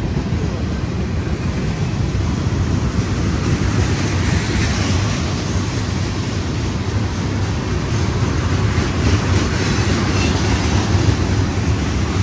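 Union Pacific manifest freight train's cars rolling past, a steady loud rumble of wheels on rail.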